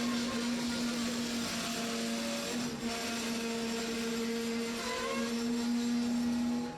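A freight train's steel wheels rolling past on the rails in a steady noise, with a held tone and short squeals from the wheels against the rails.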